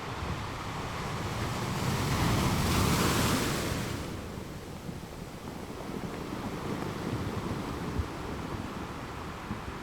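Ocean waves breaking on a beach: one wave rises and crashes about two to three seconds in, then washes out, followed by lower surf rushing.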